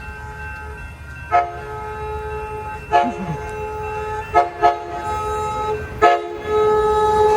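Locomotive multi-tone air horn sounding a series of blasts as the train approaches at speed, over the low rumble of the train. The blasts come in quick succession, the last one held longest.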